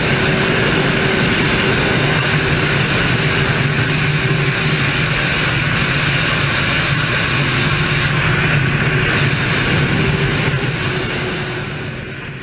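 Motorcycle riding at a steady speed: a constant engine drone with rushing road and wind noise, fading out near the end.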